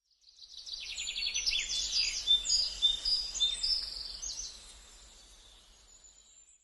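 Bird song: a quick run of high chirps, then short whistled notes, fading away over the second half.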